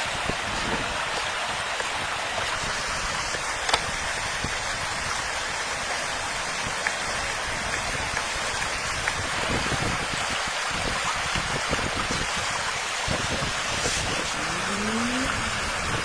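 Steady rushing water, like a stream or river, a dense even hiss with a few faint clicks. Near the end comes a brief rising tone.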